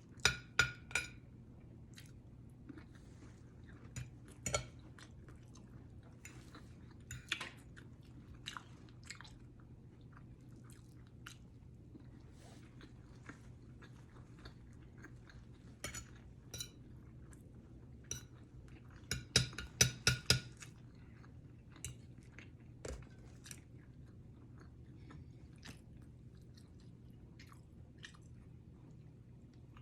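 A person chewing and biting food close to the microphone, with scattered crunches and wet clicks and a burst of several louder crunches about two-thirds of the way through. A low steady hum runs underneath.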